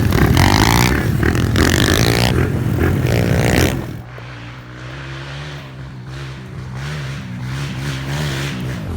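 Small 110cc four-stroke pit bike engine revving hard with the pitch rising and falling. About four seconds in it drops to a quieter, steadier engine note whose pitch wavers gently.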